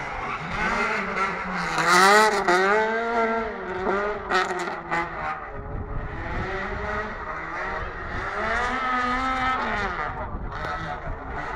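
Rally car engine revving hard and easing off as the car is driven around a tight course, its pitch climbing and falling twice, loudest about two seconds in. A few sharp cracks come about four to five seconds in.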